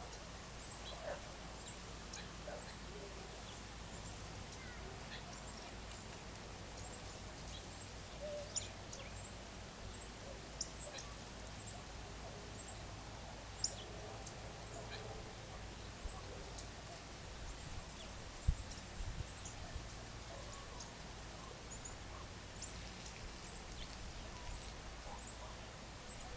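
Birds calling at dusk: scattered short, high chirps and a few lower calls over a steady background hiss, with a brief low thump about two-thirds of the way through.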